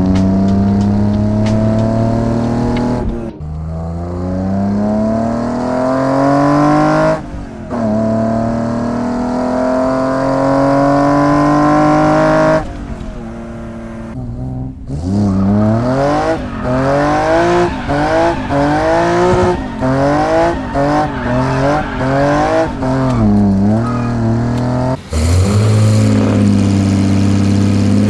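BMW E30's swapped M54B30 straight-six on individual throttle bodies, revving up in three long rising pulls, each cut off sharply as the revs drop. About halfway in it gives a run of quick rev blips rising and falling, then it climbs steadily again near the end.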